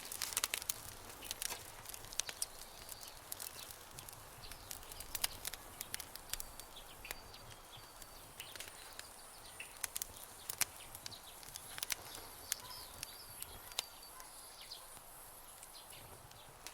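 Campfire crackling, with many sharp irregular pops and snaps, over nature ambience with faint short bird chirps and a thin high insect-like tone.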